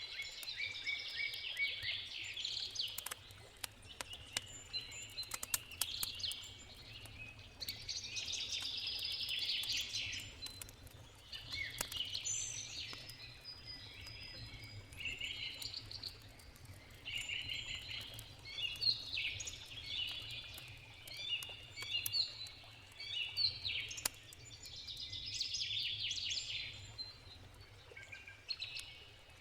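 Songbirds singing in repeated phrases, over the scattered sharp crackles and pops of a wood campfire and a steady low rush of a river.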